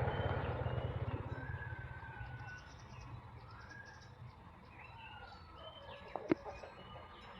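Birds chirping, short whistled calls and glides. A low rumble fades away over the first few seconds, and a single sharp click sounds about six seconds in.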